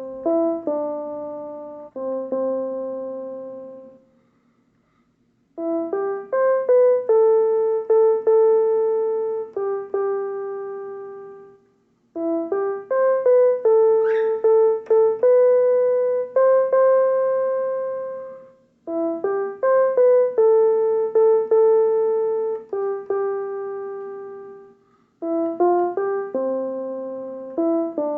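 Piano-sounding keyboard playing a slow melody, note by note, in phrases. Each phrase is a quick run of notes settling onto long held notes that fade away, with short pauses between phrases.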